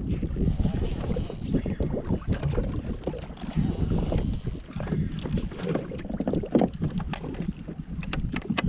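Wind buffeting the microphone over water sloshing against a fishing kayak's hull, with a few sharp clicks near the end.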